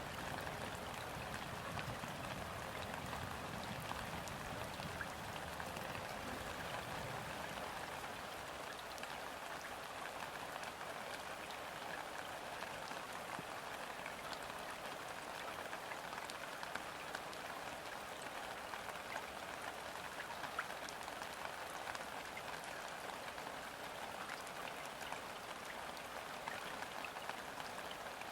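Steady gentle rain falling onto a river's surface: a dense even patter with fine, sharp drop ticks. A faint low rumble in the first several seconds dies away.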